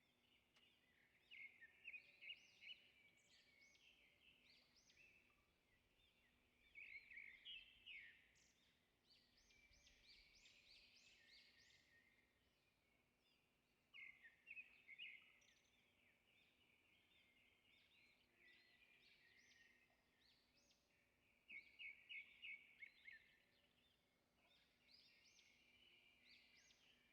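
Faint birdsong: small birds chirping in quick trills and short calls, in clusters every few seconds, over a faint steady low hum.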